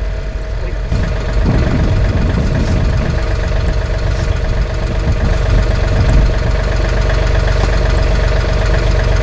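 An engine running steadily, with a held tone over a low rumble, a little louder from about a second in.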